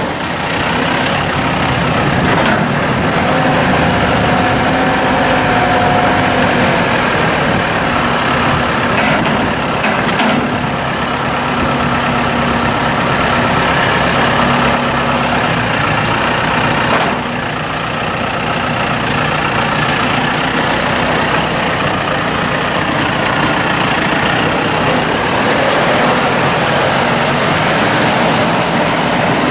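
John Deere 5100E tractor's four-cylinder turbo diesel running steadily. Its pitch rises and falls a few times as the engine speed changes.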